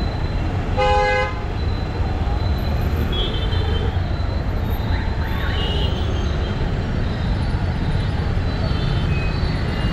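City traffic heard from a moving motorcycle: a steady low rumble of engines and road noise, with one short, loud vehicle horn honk about a second in and a few faint distant honks later.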